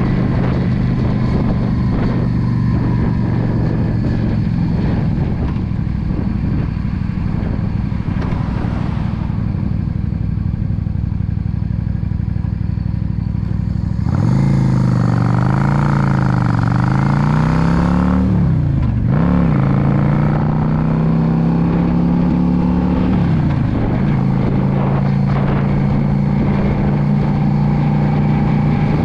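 Yamaha V Star 650's V-twin engine running under way at a steady pitch, then about halfway getting louder as it revs up and down through several gear changes, with a short dip a few seconds later, before settling back to a steady cruise.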